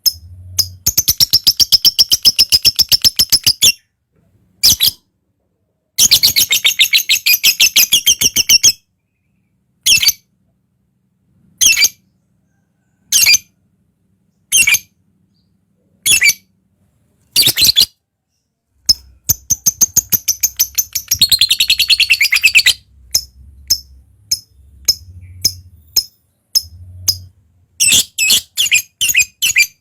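Lovebird singing in long, rapid chattering trills of repeated high notes, the ngekek song that bird keepers prize, each trill lasting a few seconds. Short single chirps come between the trills, and a quick run of notes sounds near the end.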